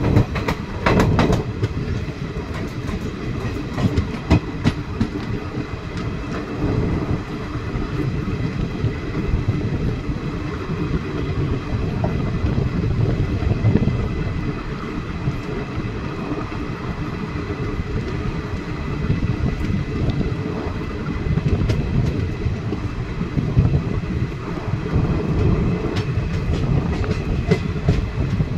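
Express passenger coaches running through a station at speed without stopping, heard from an open coach doorway: a steady wheel-and-rail rumble with clusters of sharp clacks as the wheels cross rail joints and points, near the start and again near the end.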